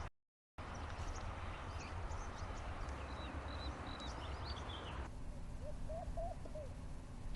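Wild birds calling outdoors: many short, high chirps over a low rumble of background noise. About five seconds in, the sound cuts to a quieter scene with short, lower rising calls repeated several times.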